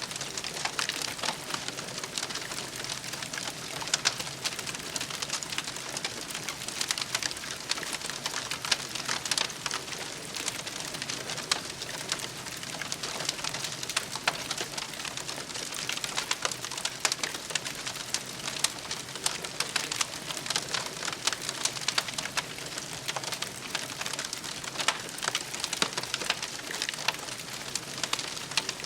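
Campfire crackling: a dense, irregular stream of small pops and snaps over a steady hiss.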